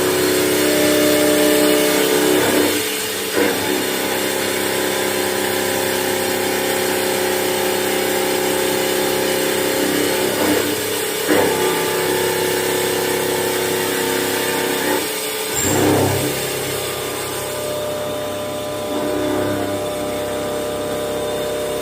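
CNC machine running, a steady machine hum with several held tones and a few short swishing swells. A deeper hum joins about two-thirds of the way in.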